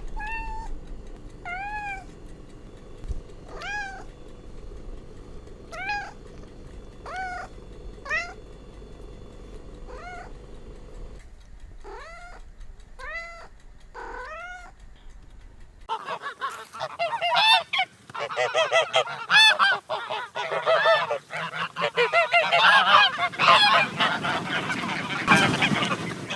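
A domestic cat meowing about ten times, one meow every second or two. About 16 seconds in this gives way to several geese honking loudly, their calls overlapping without a break.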